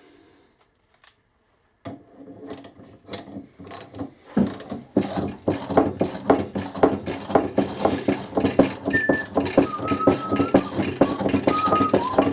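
Homemade bushing press being worked: a rapid run of sharp, ratchet-like clicks starts about two seconds in and grows louder and denser. From about nine seconds in, short high squeaks at changing pitches join the clicks.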